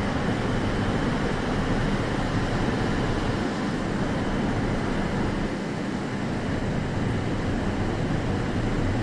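Steady train noise at a station platform: a low electric hum under an even hiss, with no distinct events.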